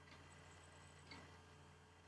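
Near silence: faint room tone with a low steady hum and a couple of very faint ticks.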